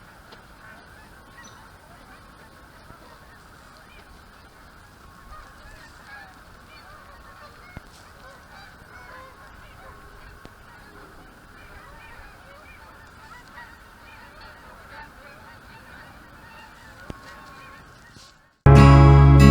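A large flock of geese honking, many calls overlapping into a continuous chatter. Near the end the calls cut off and loud acoustic guitar music begins.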